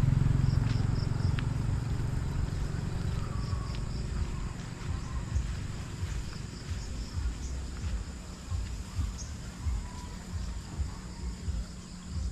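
A motor vehicle passing and fading away over the first few seconds. After it comes an uneven low rumble, with faint insects chirping high and repeating.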